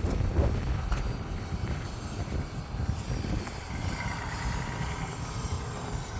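Heavy fire ladder truck's diesel engine rumbling low as the truck approaches.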